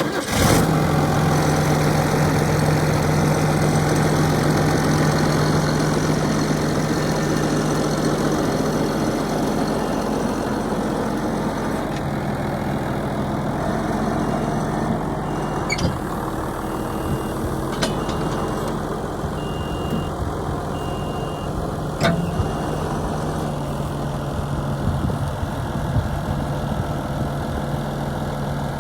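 Diesel engine of a New Holland TV145 bi-directional tractor running steadily at about idle. A few sharp clicks come in the middle, along with a faint high beep repeating about once a second.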